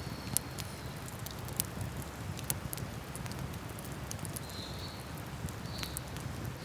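Wood campfire crackling, with irregular sharp pops a few times a second over a steady low rushing background.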